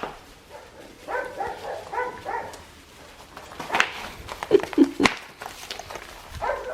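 Four-week-old Australian Shepherd puppies making short whimpers and yips, with a few sharp knocks from their scuffling around the middle.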